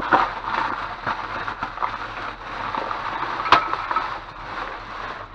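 Plastic bags and packaging rustling and crinkling as trash is rummaged through by hand, with scattered small clicks and one sharp click about three and a half seconds in.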